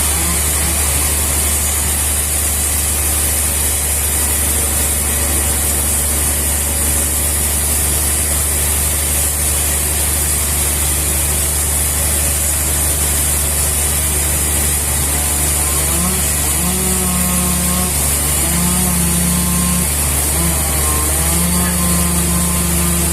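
A machine engine running steadily at a constant speed: an even, unbroken low drone with a high hiss, and no revving or cutting load.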